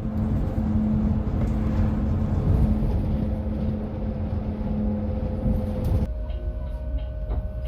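Low rumble and a steady drone from inside a moving vehicle. About six seconds in, the sound cuts to another steady vehicle hum with a higher tone.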